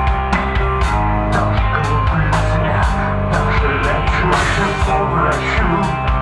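Rock band playing live: electric guitars over a steady drum-kit beat, with no vocals.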